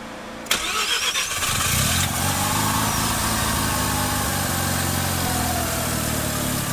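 Mazda RX-7's twin-turbo two-rotor Wankel engine, heard from a microphone in the engine bay, starting suddenly about half a second in and settling into a steady idle. A whine rises over the first couple of seconds and then slowly falls away.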